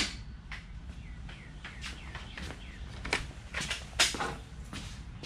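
A few sharp metallic clicks and knocks from tools and parts being handled while a mower blade is being removed, the loudest two coming a little after three seconds in and at four seconds. Faint bird chirps can be heard in the middle.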